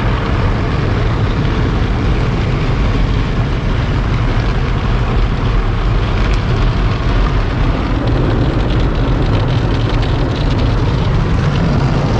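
Automatic car wash running around the car: a steady loud wash of water spray and machinery noise over a low rumble, heard from inside the car.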